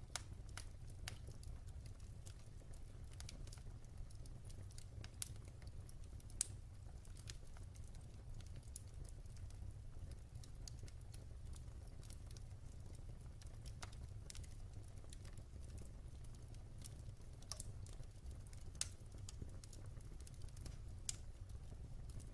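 Wood fire crackling: irregular sharp pops and snaps, a few louder than the rest, over a low steady rumble.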